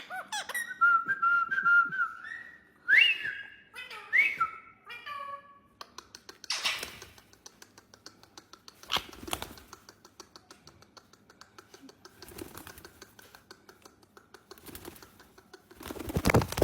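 A parrot whistling a string of sliding notes, some held, some swooping up and down, for about the first six seconds. After that come soft rapid ticks and a few short rustling bursts, the loudest near the end.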